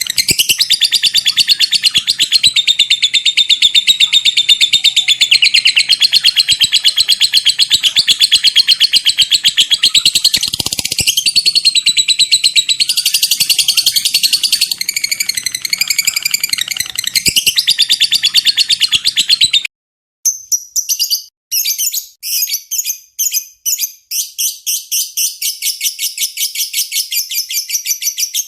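Lovebird's long 'ngekek' chatter: a fast, unbroken string of high-pitched notes. About two-thirds through it breaks off, and a second long chatter starts in stop-start bursts before settling into a continuous run.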